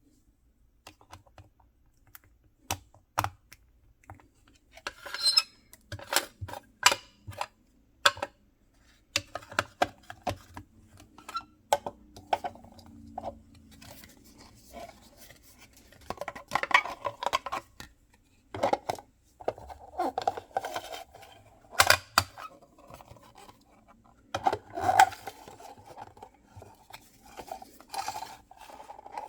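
Mystery-box packaging being handled and opened by hand: a string of sharp clicks and taps with bouts of rustling and crinkling.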